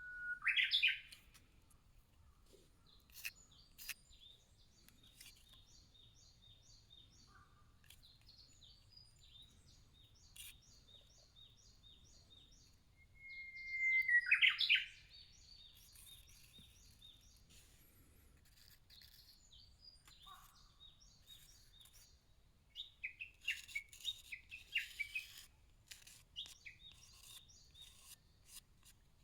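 Wild birds singing: two loud songs, each a held whistle breaking into a quick rising flourish, one at the start and one about halfway through. Between them a run of evenly repeated high chirps from another bird, and a burst of chattering calls near the end.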